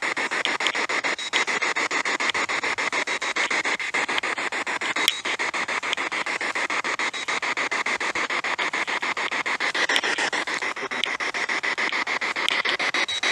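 Spirit box scanning radio frequencies: steady hissing static chopped into rapid, evenly spaced fragments.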